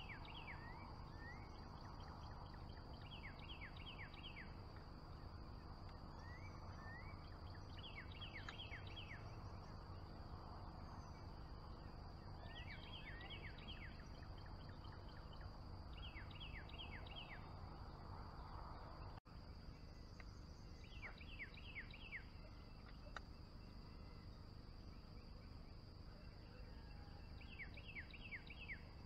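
Swamp ambience: a songbird sings a short phrase of several quick high notes, repeated every few seconds, over a steady high-pitched insect drone and a low background hum.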